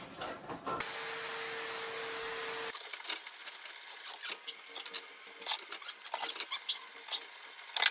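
A steady hiss with a faint hum, then, after an abrupt change about three seconds in, a run of light, irregular clicks and clinks like small hard objects being handled.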